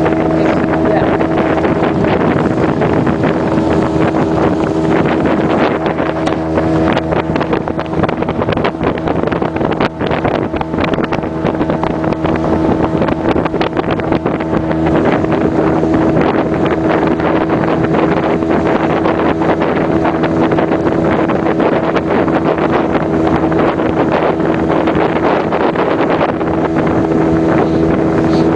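Small motorboat's outboard engine running steadily under way, with wind buffeting the microphone.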